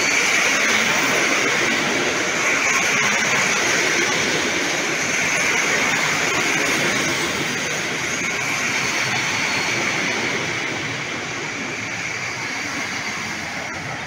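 PKP Intercity passenger coaches rolling past close by as the train pulls out of the station. Wheels on the rails make a steady rushing noise with a high tone running through it, getting gradually quieter toward the end as the last coaches go by.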